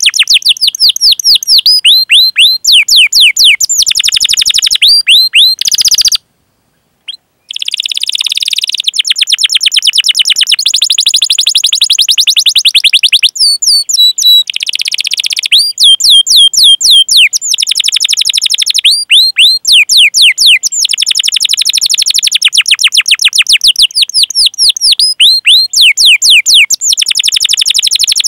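Domestic canary singing a long, loud song of rapid repeated down-slurred chirps and rolling trills, the 'cuit cuit' calls and rolls of a canary training song. The song breaks off into a silence of about a second some six seconds in, then carries on.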